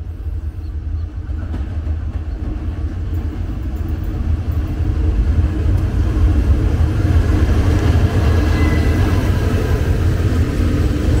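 Diesel locomotive hauling a container freight train, approaching and passing close by with a heavy low engine rumble that grows louder from about halfway through.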